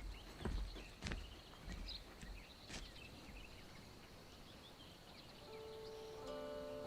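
Quiet ambience with a faint, steady high hum and a few soft knocks. About five and a half seconds in, soft instrumental music comes in with held notes.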